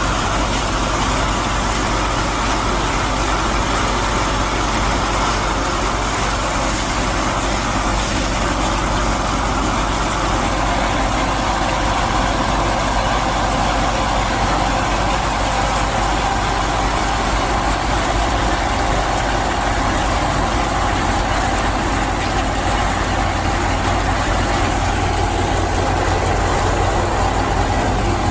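Mini tractor's engine sound running steadily at an even, idling pace, with no breaks or revs.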